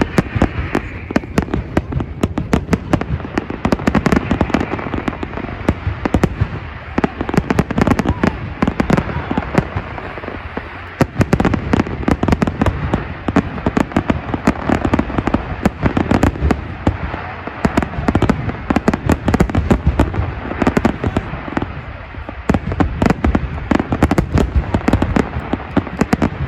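Fireworks display: a dense, continuous barrage of bangs and crackling, many reports a second, easing briefly several times.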